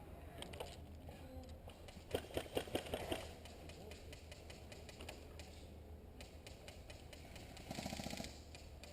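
Airsoft gun firing: a few sharp cracks about two to three seconds in, then a short, rapid, even full-auto burst near the end.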